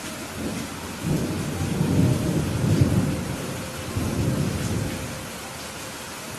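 Steady rain falling, with a roll of thunder that builds about half a second in, peaks in the middle and rumbles off again before the end.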